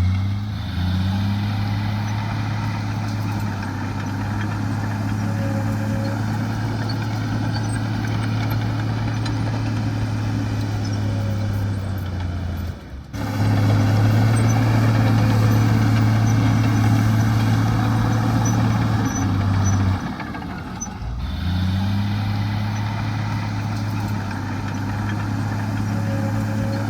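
Heavy diesel engine of earthmoving machinery running steadily under load, its pitch climbing as it revs up near the start and again about two-thirds of the way in, with two abrupt breaks in the sound.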